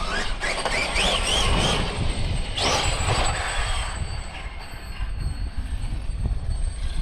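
Losi 5ive TE 3.0 electric RC truck driving under throttle: a high motor and drivetrain whine that rises and wavers in pitch about a second in, then a louder rush near three seconds, over a steady low rumble.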